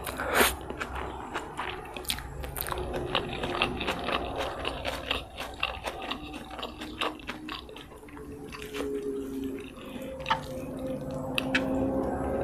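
Close-miked chewing of fried rice vermicelli with bean sprouts, with crisp crunches and wet mouth clicks. Past the middle a steady drone of road traffic rises underneath.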